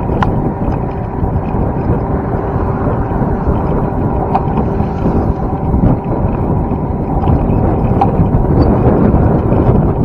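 Wind rumbling on the microphone, steady throughout, with a few light clicks scattered through it.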